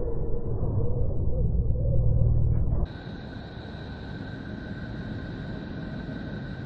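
Two eerie space 'planet sound' drones played back to back: a low rumbling drone with a wavering hum, which cuts off suddenly about three seconds in and gives way to a quieter hissing drone with two steady high whistling tones.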